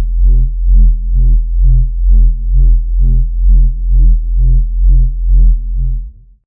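Deep synthesized bass drone throbbing about twice a second, like a wobble bass, that cuts off near the end.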